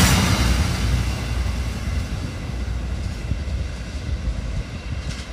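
Passenger train running over the rails as it pulls away, its low rumble and wheel noise fading steadily.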